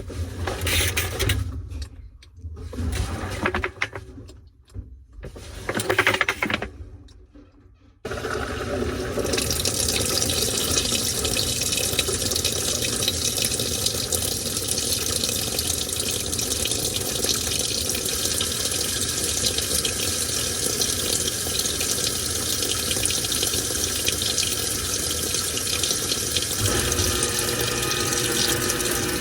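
Washing machine filling with water. A few seconds of uneven swishing give way, about eight seconds in, to a sudden, steady rush of water pouring into the tub.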